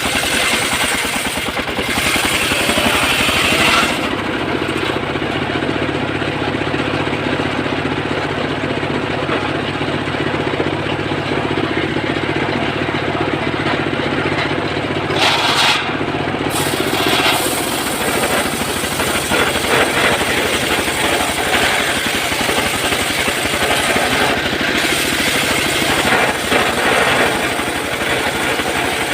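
Engine-driven saw cutting mahogany wood, the engine running steadily with a fast, even firing pulse. From about 4 s to about 17 s the gritty cutting noise drops away to a steadier engine hum, then the cutting noise comes back.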